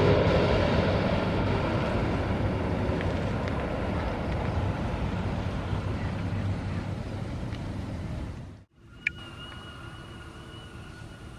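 Jet noise from a Boeing 777 landing, a loud rumble that fades steadily as the airliner moves away. Near the end it cuts off abruptly to a much quieter background with a faint steady high whistle.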